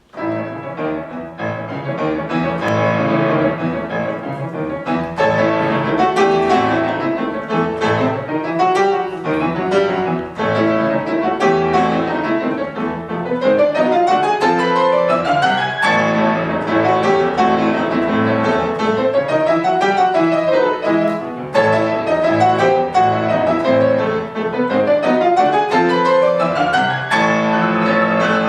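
Solo piano starting to play right after a quiet pause: a lively piece with repeated rising and falling runs over a steady bass.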